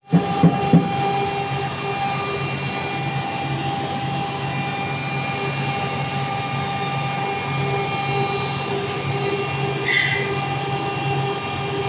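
Pet food production line machinery running steadily, a constant hum with several steady whining tones. A few knocks in the first second, and a brief clatter about ten seconds in.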